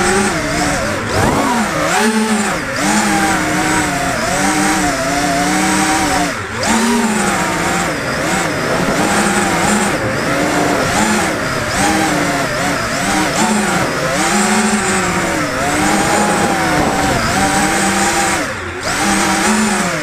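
FPV racing quadcopter's motors and propellers whining, the pitch swinging up and down again and again as the throttle changes. The sound dips briefly about six seconds in and again near the end.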